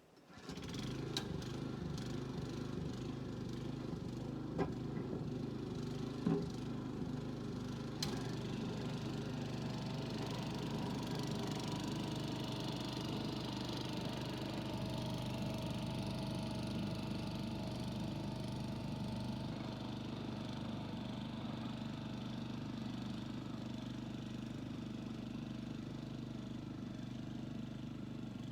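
Yanmar walk-behind tiller's diesel engine coming to life suddenly just after the start and settling into a steady run. A few sharp knocks are heard in the first eight seconds.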